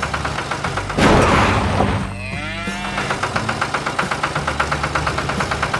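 A cow moos once, about two seconds in, just after a short burst of noise. A steady fast pulsing runs underneath.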